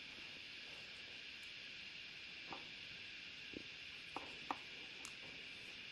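A few faint, scattered clicks and taps of small parts and wiring being handled, over a steady hiss.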